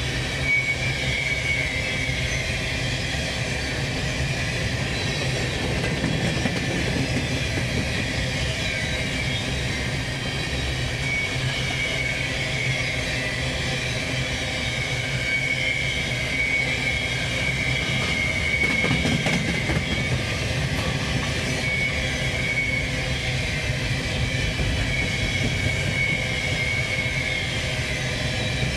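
Empty covered hopper cars of a potash unit train rolling past at steady speed: a continuous rumble of steel wheels on rail with a steady high wheel squeal over it.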